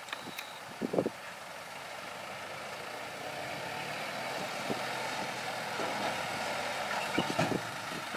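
Heavy vehicle engine running and growing steadily louder, as if approaching or working harder, with a few short knocks about a second in and again near the end.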